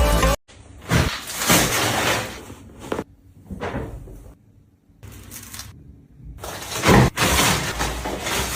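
Household cleaning sounds in short edited snippets: scrubbing or wiping noise with clicks and knocks of things being handled, each snippet cut off abruptly by a brief near-silent gap.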